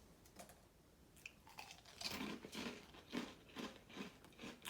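Someone chewing a mouthful of dry Froot Loops cereal, eaten without milk, with faint crunches starting about two seconds in and coming two or three times a second.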